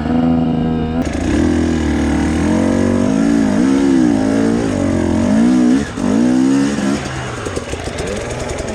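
Two-stroke dirt bike engine revving up and down again and again, its pitch rising and falling about once a second.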